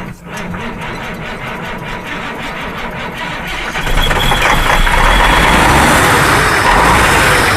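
Diesel engine cold start: the starter cranks it in an even rhythm, and about four seconds in it fires and runs, much louder.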